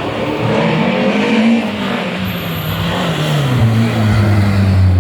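Historic rally car engine under load, its pitch climbing briefly about a second in, then dropping about three and a half seconds in and holding lower, over a dense rushing noise.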